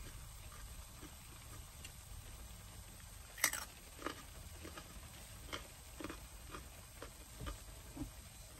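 Close-miked chewing and mouth sounds of someone eating: soft irregular clicks and smacks about every half second, with one sharper click about three and a half seconds in.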